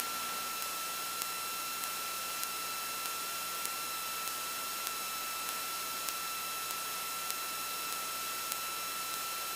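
Steady hiss and a constant high whine on a light aircraft's intercom and radio audio line between transmissions, with a faint tick repeating a little under twice a second.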